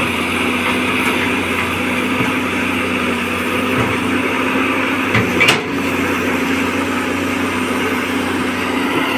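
Caterpillar excavator's diesel engine running steadily under load as the machine works itself through sucking mud, with one short knock about five and a half seconds in.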